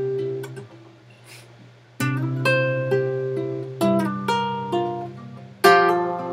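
Acoustic guitar playing chords that are struck and left to ring and fade, with a new chord about two seconds in, another near four seconds, and a louder one near the end.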